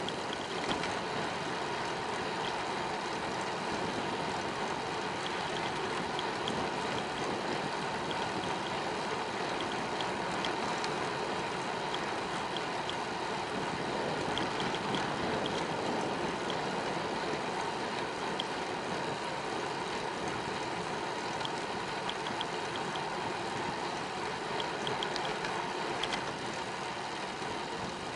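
Steady rushing noise of a bicycle being ridden along a paved path: tyres on the road and wind on the microphone, with scattered faint light ticks.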